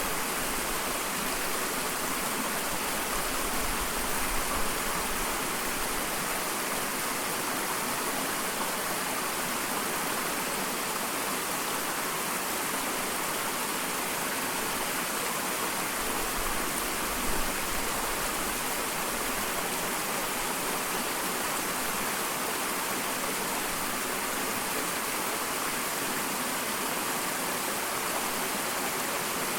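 Small waterfall: water falling and splashing in a steady, even rush, mostly a high hiss with little deep rumble.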